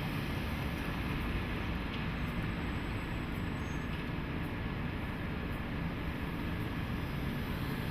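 JNR DE10 diesel-hydraulic locomotive running at a steady, even level, its engine drone mixed with train running noise.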